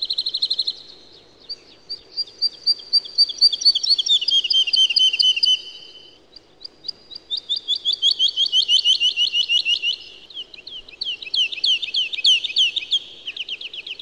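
Songbird singing fast trills of high chirping notes, in three long phrases with short breaks between.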